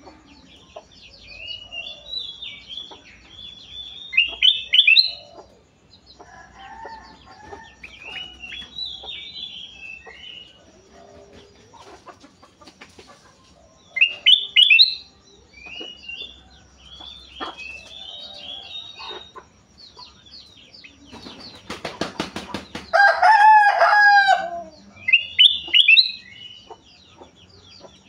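Kutilang emas bulbul singing in short, bright, warbling phrases repeated every few seconds. About three-quarters of the way through comes a louder stretch: a quick run of rapid strokes, then a drawn-out lower call with falling notes, from another bird.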